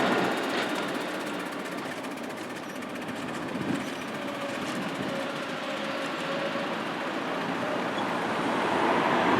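Miniature railway train running, its sound fading away at the start and growing louder again near the end.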